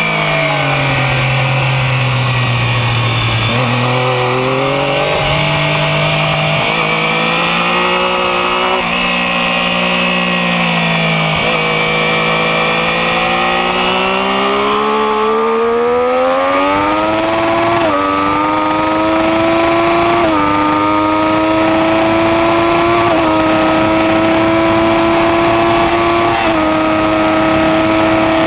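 Sport motorcycle engine at full track pace, heard from a camera mounted on the bike, with wind rushing past. The engine note falls and rises through the first half. In the second half it climbs with four brief dips in pitch, each an upshift.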